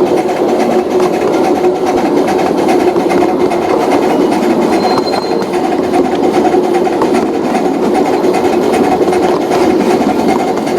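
Model train running on the layout: the steady hum of its small electric motor and gearing, with light clicking of wheels on the track.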